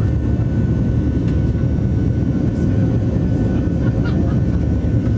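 Steady cabin noise of a Boeing 737NG in flight: its CFM56 jet engines and the airflow make an even, low rumble with faint steady whining tones above it, heard from inside the passenger cabin.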